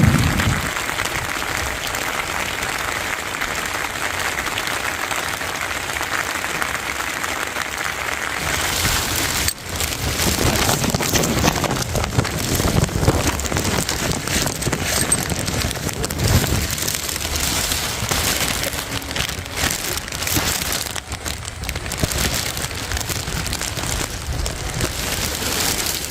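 Steady rain falling. About ten seconds in the sound changes abruptly to denser pattering, with many separate drops hitting a surface.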